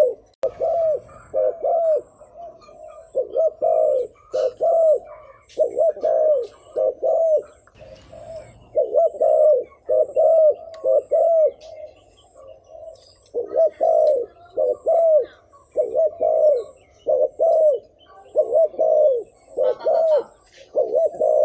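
Spotted dove cooing: short arching coo notes in quick groups of two or three, repeated again and again with brief pauses, the rapid cooing used as a lure call.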